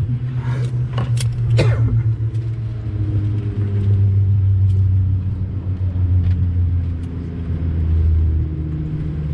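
Airbus A220-300 cabin noise: the low drone of its Pratt & Whitney PW1500G geared turbofans and airflow, whose hum drops lower in pitch a few seconds in. A few sharp clicks and rattles sound in the first two seconds.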